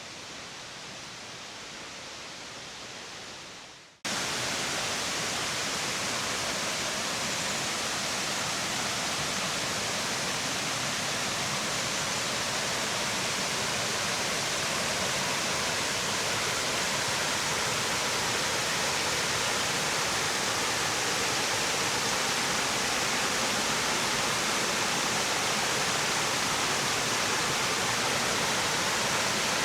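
Waterfall, a steady rush of falling water. A quieter stretch of water sound fades out about four seconds in, then cuts suddenly to the much louder rush, which swells slightly.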